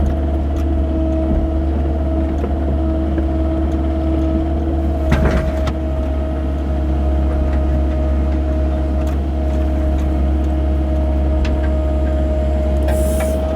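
Excavator's diesel engine running steadily under load, with a steady whine over the low drone and a single clunk about five seconds in.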